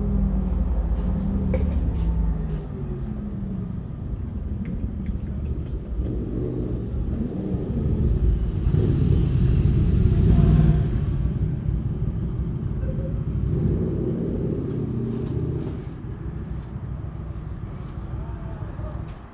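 A motor vehicle engine running with a low rumble, its pitch shifting. It grows louder toward the middle, then eases off, with a few light clicks.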